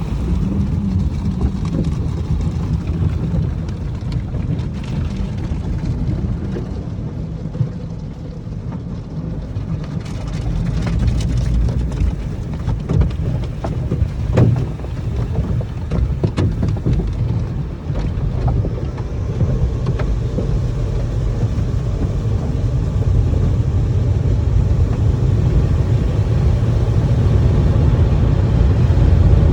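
Automatic car wash heard from inside a car driving through it: a steady low rumble of machinery and water on the car, with scattered knocks in the middle, growing louder near the end.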